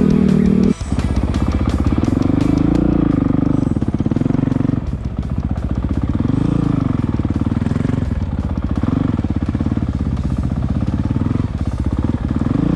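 Enduro motorcycle engine running under way, its pitch rising and falling several times as the throttle opens and closes. Under a second in, a steady held tone cuts off abruptly.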